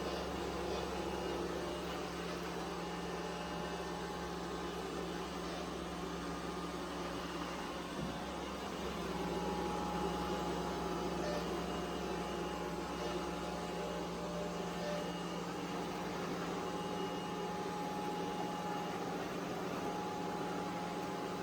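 Roborock Qrevo S robot vacuum running: a steady motor hum and whine.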